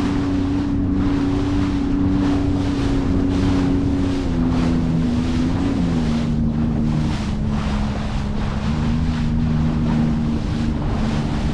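Sea-Doo Fish Pro jet ski engine running under way on open sea, its pitch holding steady and then easing down a little about four and six seconds in. Wind buffets the microphone over rushing water.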